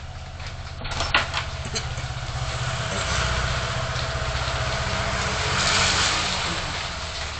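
Car engine running with road noise, as picked up by a dashcam. There are a couple of sharp knocks about a second in, and a swell of hissing noise that peaks near the end, then eases.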